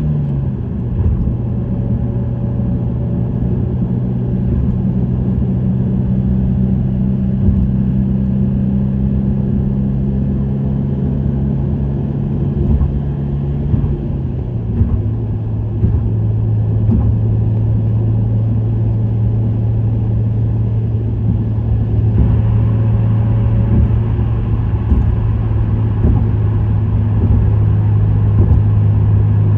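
Subaru WRX STI's EJ20 turbocharged flat-four running through an STI Performance muffler at a steady cruise, a continuous low drone under road noise. The engine note drops a step in pitch right at the start and again about halfway through.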